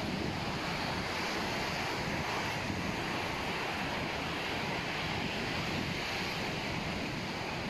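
Sea surf washing onto the beach in a steady, even wash, with wind rumbling on the microphone.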